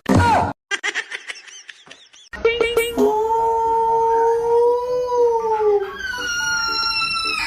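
A dog howling: a few short high yelps, then a long held howl of about three seconds that rises slightly and sinks, followed by a higher, slowly falling note.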